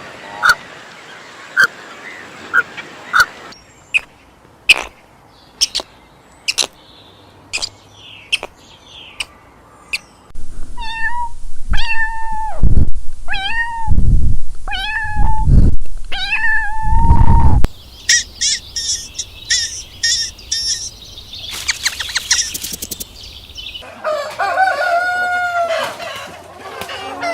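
A sequence of different animal calls: a string of short sharp chirps, then a run of repeated drawn-out pitched calls through the middle, then quicker chirping and more calls near the end.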